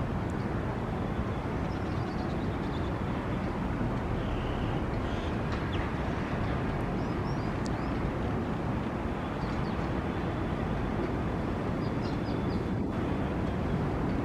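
Steady low rumble of city traffic, with scattered faint high bird chirps and calls through it.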